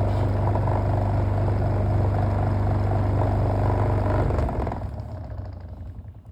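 Electric fan motor running on speed 2 with a warped, unbalanced blade, a steady low hum with a rattling vibration. About four and a half seconds in it fades as the fan winds down.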